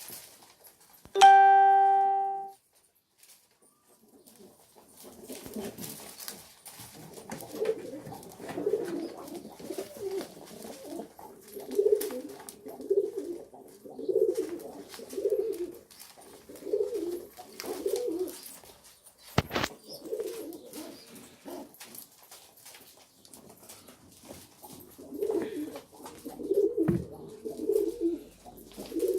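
Domestic pigeons cooing in repeated low, throaty bouts. Near the start comes a single loud held tone, about a second long, that fades out, and there is one sharp click midway.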